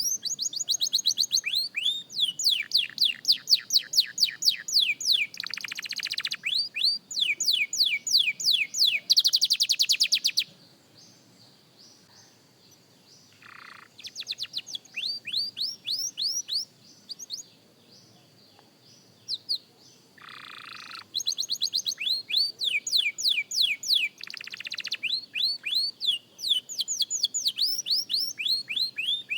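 A young canary singing practice song: fast trills of repeated falling whistled notes. About nine seconds in comes a harsher buzzing roll. The song then breaks off for a few seconds twice before the trills resume.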